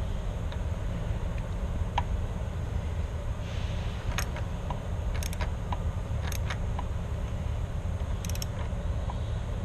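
Scattered sharp metallic clicks and taps of tools and lock hardware being handled on a door, a few seconds apart, over a steady low rumble.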